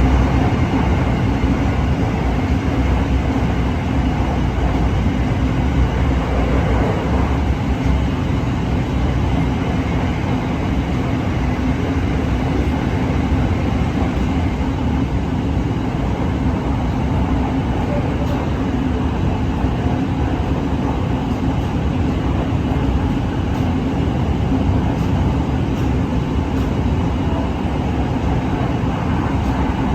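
Steady ride noise inside an SRT Red Line electric commuter train running at speed: a continuous rumble with a low, steady hum.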